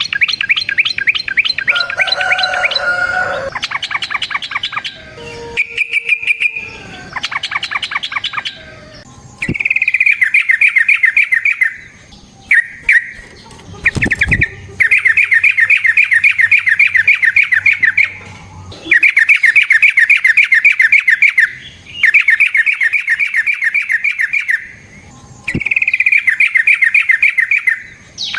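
Yellow-vented bulbul (trucukan) calling in long, rapid chattering trills. The trills come in bursts of two to three seconds with short pauses between them, and the first several seconds are busier with overlapping calls. A single click comes about halfway through.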